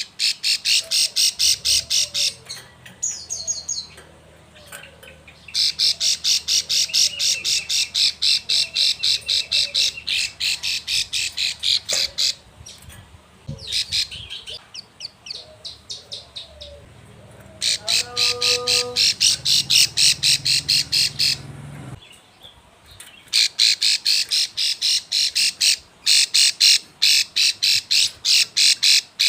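Female plain prinia calling: long bouts of rapid, sharp, evenly repeated notes, several a second, with short pauses between the bouts. This is the call of a female in breeding condition calling for a male.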